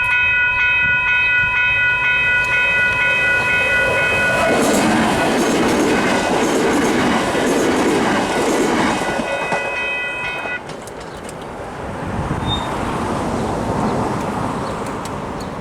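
Level-crossing electronic bells (Western Cullen Hayes e-bells on their quiet setting) ringing steadily while a train rumbles and clatters past over the crossing. The bells cut off suddenly about ten and a half seconds in as the crossing clears, leaving the fading rumble of the train.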